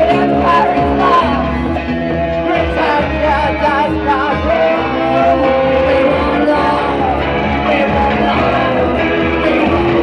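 Live punk band playing loudly: distorted electric guitars, bass and drums, with a singer's voice over them.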